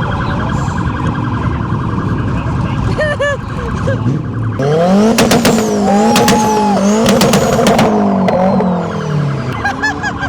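A car engine revs up sharply about four and a half seconds in, holds high with a wavering pitch and several sharp cracks, then drops back near the end. Throughout, there is the steady din of other cars running.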